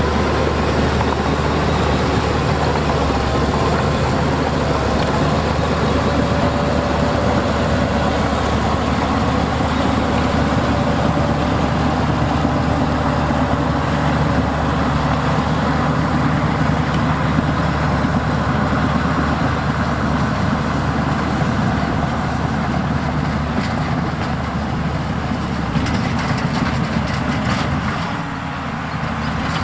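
Heavy diesel earthmoving machinery running steadily under load, with a faint wavering whine over the first several seconds and a few sharp clicks near the end.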